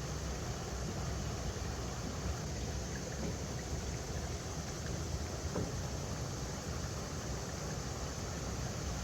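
Steady rushing of river water flowing over rocks, with a low rumble underneath.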